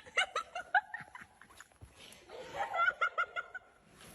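A person laughing in two bouts of quick, short bursts, the second starting about two and a half seconds in.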